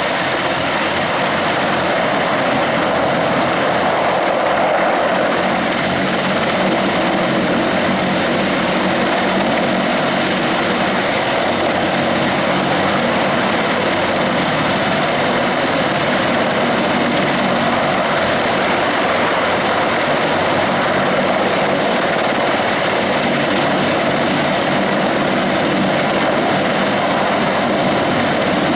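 Mi-26 heavy-lift helicopter running with its two D-136 turboshaft engines, a steady, loud rotor and engine noise with a high, constant turbine whine on top.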